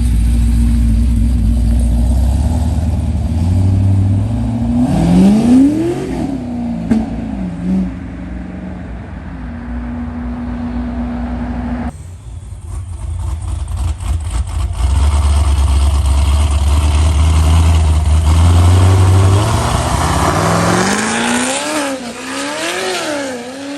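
Chevrolet Corvette V8 engines revving hard as the cars leave: a low rumble, then rises and falls in pitch about five to seven seconds in. After a sudden break about halfway through, a second Corvette, a C7 said to make 1,000 horsepower, rumbles and revs up and down several times near the end.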